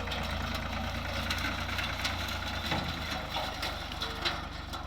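Tractor engine idling with a steady low pulsing hum, and a few short knocks over it, the sharpest near the end.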